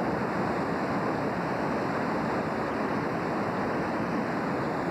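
Floodwater of the North Fork Wilson River rushing past, a steady unbroken noise of fast-moving water.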